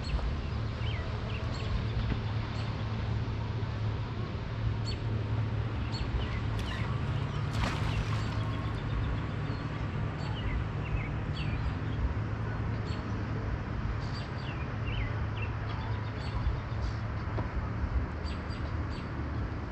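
Small birds chirping on and off over a steady low rumble, with one brief noisy burst about eight seconds in.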